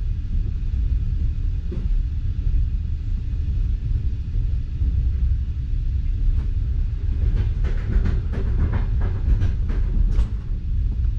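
Passenger railway coach running along the track, heard from inside: a steady low rumble of wheels and rails, with a scatter of brief clicks in the second half.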